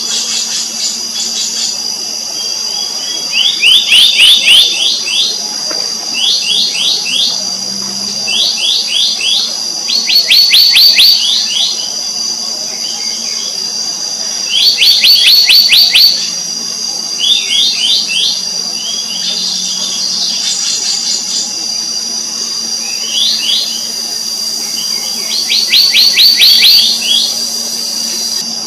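Black-naped monarchs calling: bursts of rapid, downward-sweeping whistled notes, each burst about a second long, repeated every few seconds. A steady high-pitched whine runs underneath.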